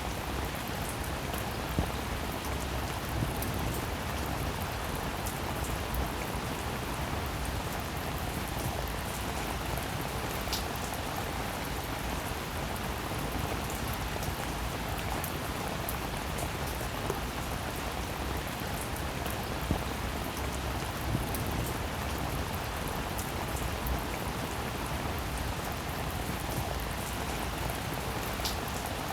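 Steady rain falling, with many single drops ticking sharply over the even hiss of the downpour.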